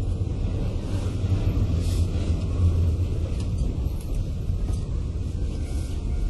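Kintetsu 8000 series electric train car standing at a station, its onboard equipment giving a steady low rumble.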